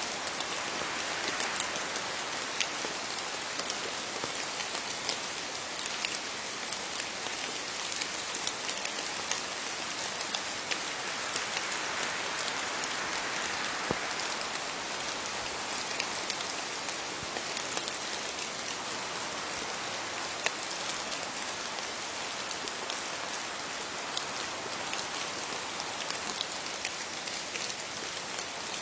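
Steady rain falling on leaves, a continuous patter with individual drops ticking through it.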